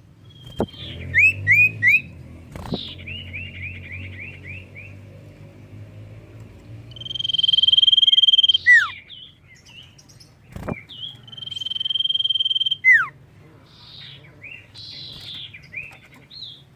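Common iora (cipoh) singing: quick runs of short rising chirps, and twice a long steady whistle that ends in a falling note. A low steady hum and a few sharp clicks lie underneath.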